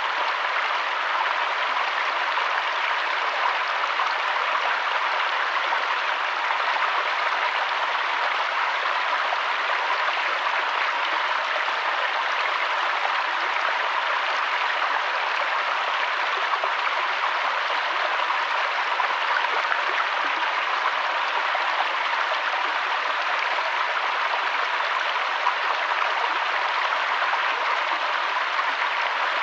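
River water flowing in a steady, even rush with no pauses or changes.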